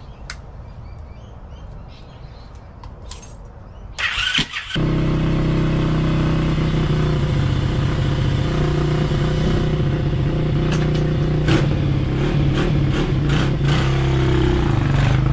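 Motorcycle engine starting: a short burst about four seconds in, after which the engine catches and runs at a steady, even pitch.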